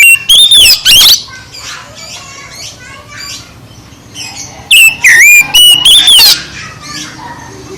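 Oriental magpie-robin (kacer) singing loudly: two bursts of whistled, swooping phrases, one at the start and another about five seconds in, with softer chattering notes between.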